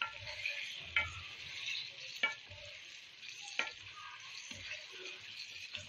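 Raw chicken pieces sizzling in hot onion-tomato masala in a kadhai as a wooden spatula stirs them. The spatula knocks against the pan every second or two.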